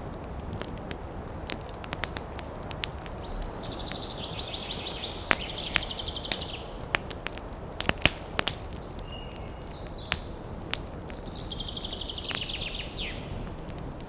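Campfire crackling, with irregular sharp pops over a steady rush of fire and wind in the trees. Twice a bird sings a high, rapid trill lasting a couple of seconds, the second ending in a falling slur.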